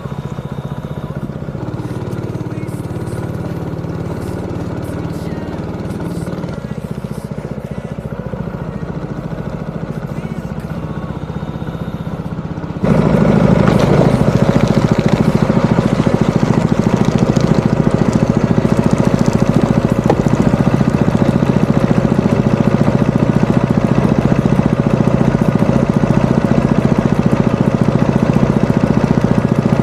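Small boat motor running steadily, jumping abruptly louder about 13 seconds in.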